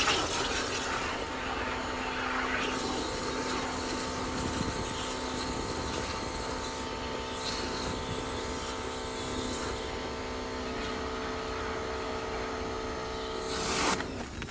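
A motor-driven cleaning machine running steadily, with a whine of several steady tones over a hiss, cut off abruptly near the end after a brief louder swell.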